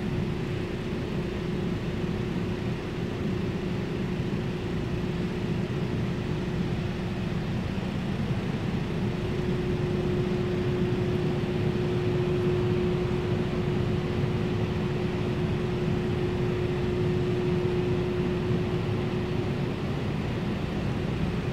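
A steady mechanical hum: an even rushing noise with one steady low tone that grows stronger about nine seconds in and eases slightly near the end.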